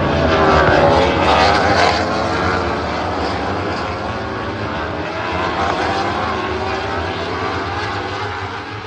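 Loud engine noise that swells over the first two seconds, with pitch sweeping as it passes, then slowly fades.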